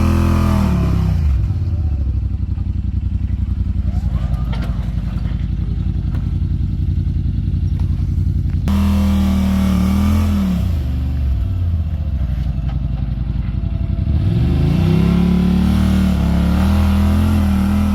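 Side-by-side UTV engine working at low speed over a trail obstacle: it revs up in swells and falls back to a low, pulsing rumble in between. The sound changes abruptly about halfway through, then the revs rise again and hold high near the end.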